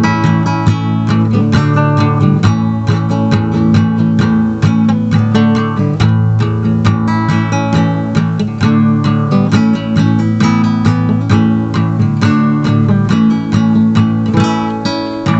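Acoustic guitar playing an instrumental passage of a song, a quick run of plucked and strummed notes over a steady low line.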